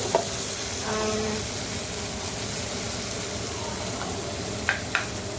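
Tomato-and-onion sauce sizzling steadily in a frying pan, with two sharp clicks near the end.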